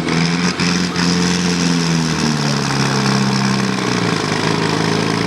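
An engine running, its pitch falling between about two and four seconds in as the revs drop, then running steadily at a lower speed.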